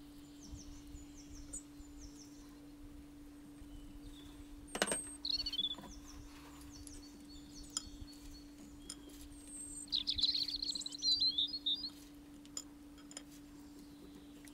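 Small bird chirping in short high bursts, busiest about ten to twelve seconds in, over a steady low hum. A single sharp click comes about five seconds in.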